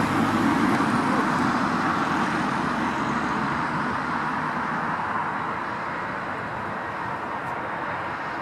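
Jet engines of an Aer Lingus Airbus A320 on landing: a steady, rushing roar that slowly fades as the airliner passes.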